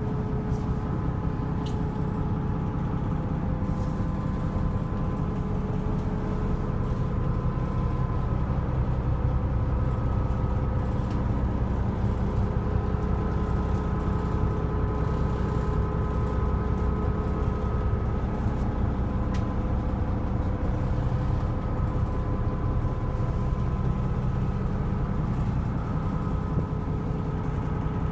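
A fishing boat's engine running steadily: a constant low drone with a few steady higher tones over it, and no change in speed.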